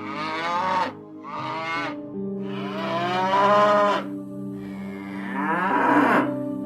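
Cow mooing four times, the third call the longest and the last one falling in pitch, over soft background music.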